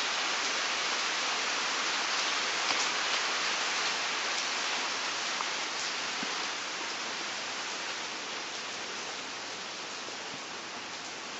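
Heavy rain falling steadily, an even hiss with a few faint sharper drop ticks; it eases slightly over the last few seconds.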